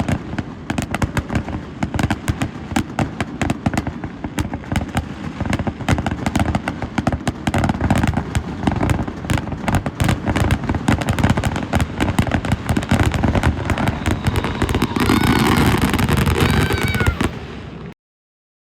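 Fireworks going off in a dense barrage, many bangs and crackles a second with no pause, until the sound cuts off suddenly near the end.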